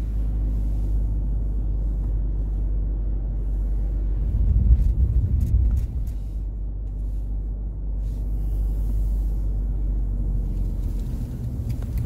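Steady low rumble of a car driving, heard from inside the cabin, swelling louder for a couple of seconds about four seconds in.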